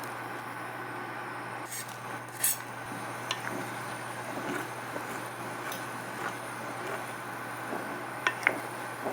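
A steady low hum with a few short, sharp clicks or clinks: the loudest about two and a half seconds in, and two close together near the end.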